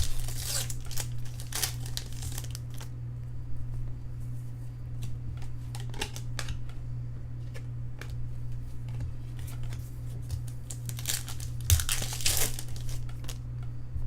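Baseball card packs being handled: foil wrappers crinkling and tearing open in bursts near the start and again about eleven seconds in, with light rustling of cards between. A steady low hum runs underneath.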